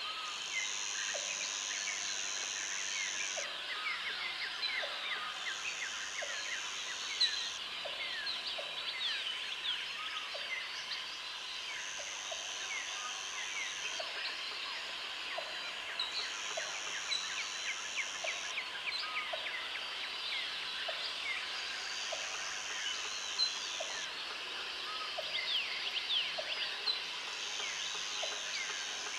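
Dense jungle ambience: a high insect buzz comes in bursts of two to three seconds, every four to five seconds, over a busy chorus of many chirping birds. A short, low note repeats about once a second underneath.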